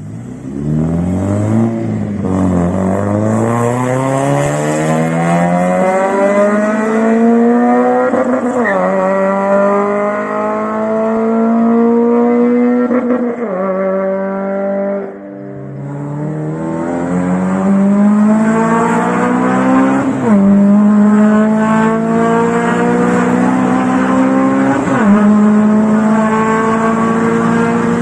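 Honda Civic's naturally aspirated VTEC inline-four revving hard under acceleration, pitch climbing and then dropping at each of several upshifts. It lifts briefly about halfway through, then pulls up through the gears again.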